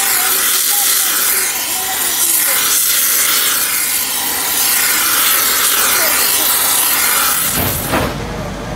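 A steady harsh rasping hiss, with no clear rhythm. It gives way to a low hum near the end.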